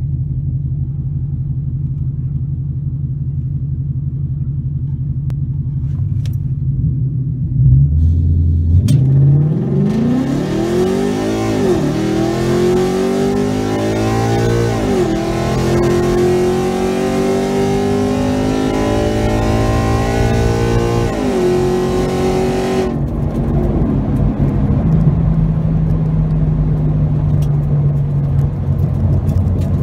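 Tuned Ford Mustang GT 5.0 V8 with an off-road X-pipe, heard from inside its cabin at a drag launch: idling, then going to full throttle about eight seconds in, its pitch climbing and dropping back at the automatic's upshifts about twelve, fifteen and twenty-one seconds in. Near twenty-three seconds the throttle is lifted and the engine settles to a steady lower note with road noise.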